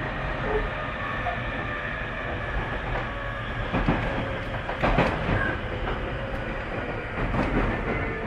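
Tobu 30000 series electric train running, heard from inside the car: a steady rumble of wheels and motors, with a few wheel knocks over rail joints, the strongest about five seconds in.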